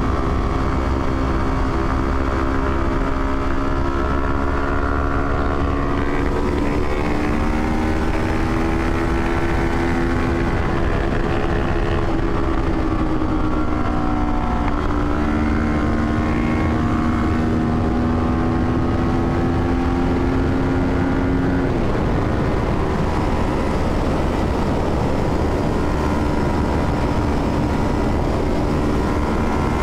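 Motorcycle parallel-twin engine running under way at a steady loudness. Its pitch slides slowly up and down with speed and steps abruptly a few times, as at gear changes.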